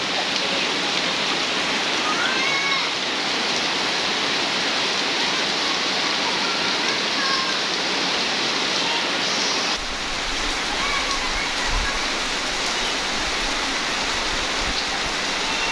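Heavy rain pouring steadily, a dense even hiss, with faint voices calling out now and then.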